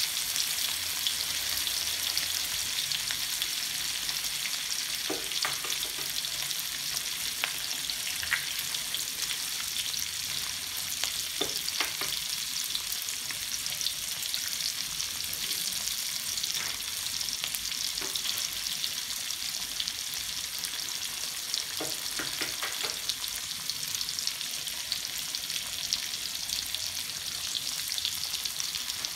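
Oil sizzling steadily in a steel wok as green beans and freshly cracked eggs fry, with a constant high hiss and scattered crackles and pops.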